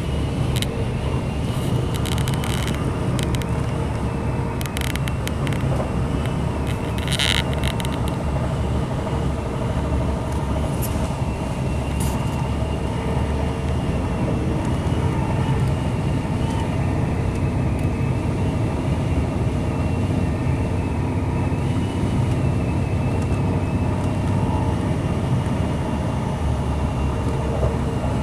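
Inside the carriage of a Class 185 diesel multiple unit running along the line: steady low rumble of the underfloor diesel engine and wheels on the rails, with a steady high whine. A few clicks and rattles in the first eight seconds.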